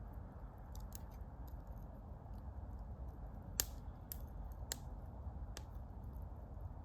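Campfire crackling: a low steady rumble with scattered sharp pops and snaps, the loudest about halfway through.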